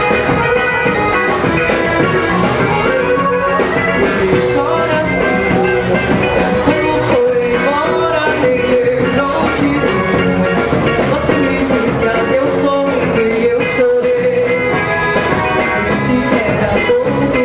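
Lively accordion-led dance music, with a steady percussion beat under the melody.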